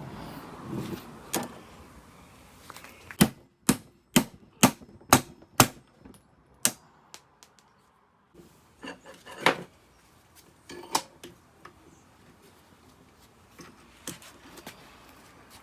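Sharp knocks and taps of tools on hard parts: a run of about six evenly spaced taps, about two a second, a few seconds in, then scattered single knocks.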